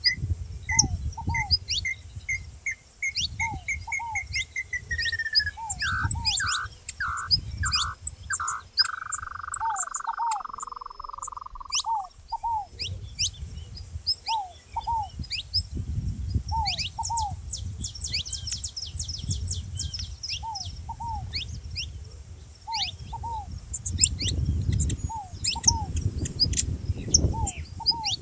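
Saffron finches chirping with many short high calls over a ground dove's soft two-note coo, repeated every second or two. A run of notes speeds up and falls in pitch about a third of the way in. Low rumbling noise runs underneath.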